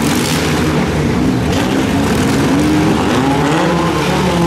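Several four-cylinder demolition-derby cars running together, engines revving and rising and falling in pitch over a steady din.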